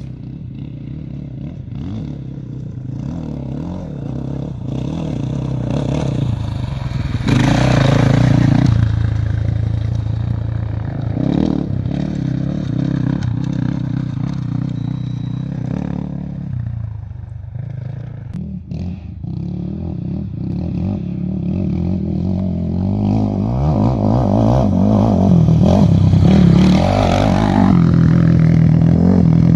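An engine running continuously, its pitch and loudness rising and falling, louder near the end.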